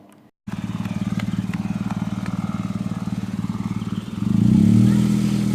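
Car engine running steadily, cutting in suddenly under a second in, then growing louder and shifting slightly in pitch about four seconds in.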